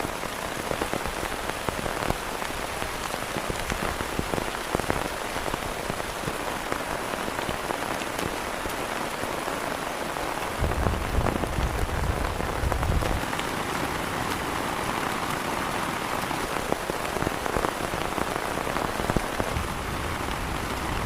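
Heavy rain falling steadily, with many single drops striking close by. A low rumble runs for a couple of seconds about halfway through.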